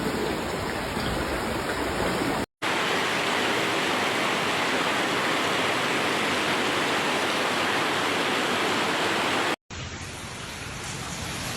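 Fast-flowing floodwater rushing, a steady noise with no pitch. It cuts off abruptly twice, after about two and a half seconds and again about two seconds before the end, and is a little quieter after the second cut.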